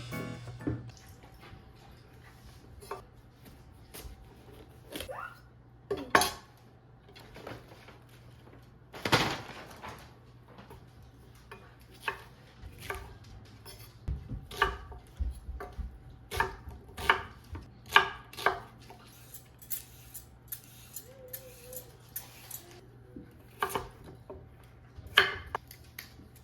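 Kitchen utensils and dishes being handled: irregular knocks and clinks, some sharper than others, over a faint steady hum.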